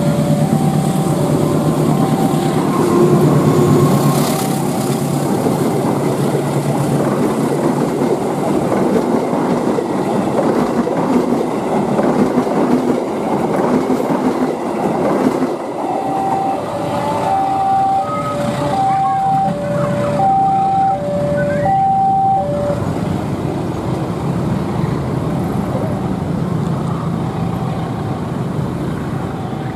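Diesel-hauled passenger train passing close by, its locomotive and coaches giving a steady rumble and clatter of wheels on rail that is loudest a few seconds in. About halfway through, a two-tone warning alarm beeps, alternating high and low about twice a second for several seconds, as a level-crossing alarm does.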